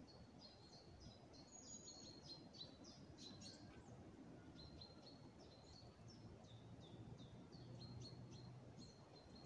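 Faint birdsong: many short, high chirps, several a second, some sliding quickly downward, over a low background hiss.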